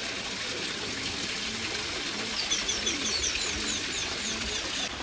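Songbird calling a quick run of short, high chirps, about five a second, from about halfway in, over soft low cooing of a dove and a steady hiss.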